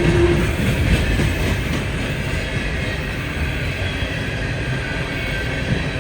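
Freight train rolling past: a steady rumble of wheels on the rails with a few faint clicks.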